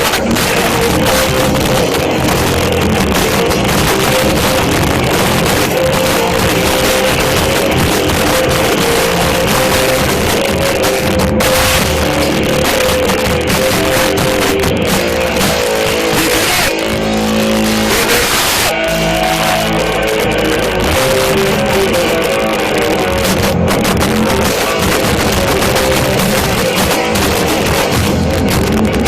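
Loud live rock band with distorted guitar playing, recorded with heavily overloaded, distorted sound; the texture shifts briefly to a few held notes about two-thirds of the way through.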